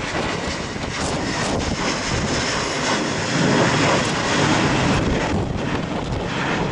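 Jet airliner's engines heard loud and steady as it passes, mixed with strong gusty wind buffeting the microphone.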